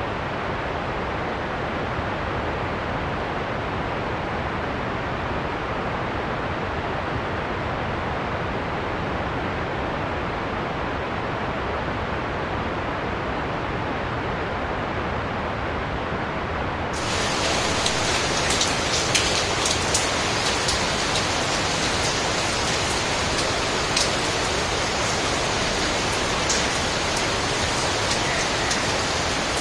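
Recorded storm ambience of heavy rain: a steady, muffled rushing that about halfway through switches abruptly to brighter, slightly louder rain with individual drops pattering.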